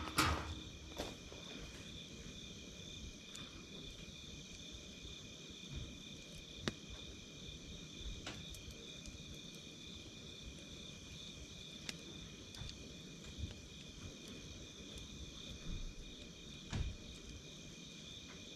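Insects, crickets by the sound, calling steadily at night in two high pitches, one a fast pulsing trill, with a few scattered sharp pops and crackles from a wood campfire. A brief louder rustle and knock right at the start.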